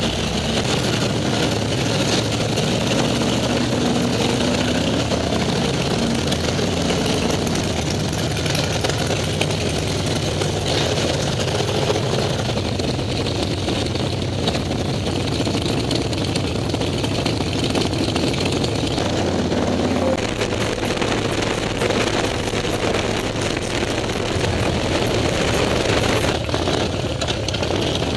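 Harley-Davidson V-twin motorcycle engines running steadily at low revs.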